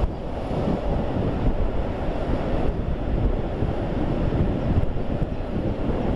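Steady rumble of a freight train's wagons rolling along the track, mixed with wind buffeting the microphone.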